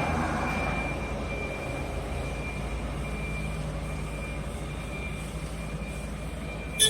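Diesel engine of a farm machine running steadily at a constant speed, with a thin high whine alongside and a sharp click at the very end.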